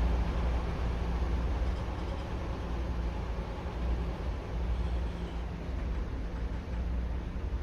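R211 subway train running between stations: a steady low rumble of wheels and track with a faint even hum over it.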